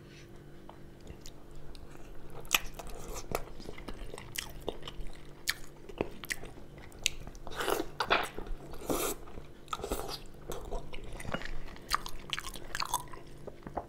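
Close-miked chewing and biting of stewed lamb on the bone, with many wet mouth clicks and smacks that grow denser and louder in the second half.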